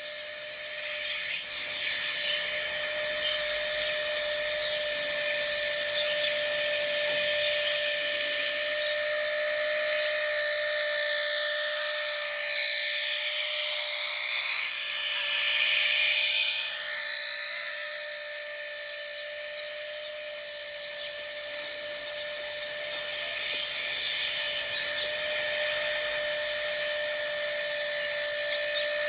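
Blade Nano S3 micro RC helicopter in flight, its small electric motors and rotors giving a steady high-pitched whine. About halfway through, the pitch swings up and down for a few seconds as the throttle changes, then settles again.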